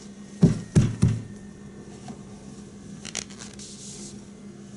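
Two dull knocks close together about half a second in, then a few faint light taps later on: objects being handled and set down on a bench.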